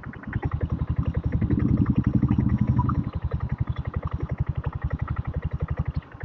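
Single-cylinder diesel engine of a diesel Royal Enfield Bullet motorcycle running on the move, a rapid even thumping. It grows louder for about a second and a half from about a second and a half in, as under throttle, then settles back to a steady beat.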